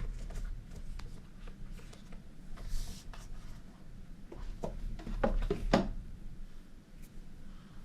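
Product packaging being handled and opened by hand: scattered rubbing, rustling and small clicks, with a cluster of sharper clicks and scrapes about five to six seconds in.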